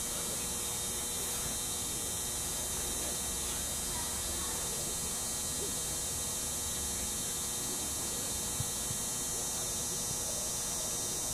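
Steady hum with a high hiss, even in level throughout, with faint voices far off.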